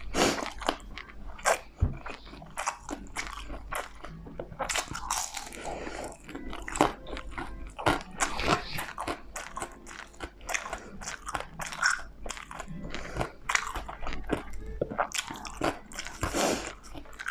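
Close-miked crunchy chewing and biting of crispy fried dumplings and bacon, with many irregular crackly crunches and wet mouth sounds.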